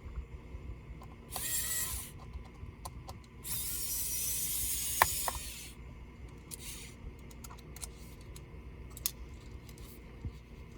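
Small hand tools working on a laptop's case: two stretches of rasping, one short and one about two seconds long, among scattered small clicks, with a sharper click about five seconds in.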